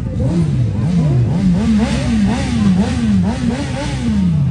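Superbike engine being revved in quick throttle blips, about two a second, each rising and dropping back, with a longer fall near the end.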